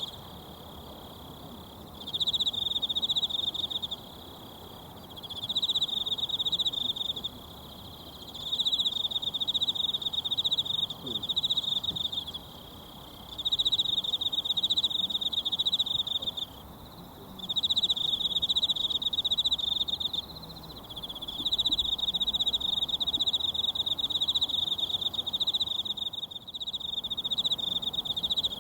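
A cricket-like insect trilling in repeated bouts of two to three seconds separated by short pauses, about eight bouts, over the steady rush of a mountain stream.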